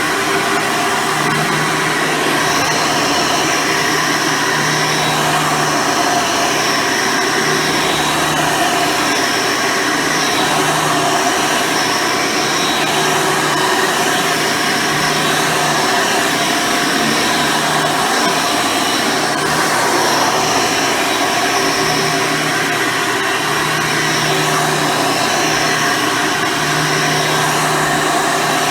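Hoover Soft & Light Supreme upright vacuum cleaner with a 12-amp motor, running steadily. A low hum and a high whine come and go every second or two.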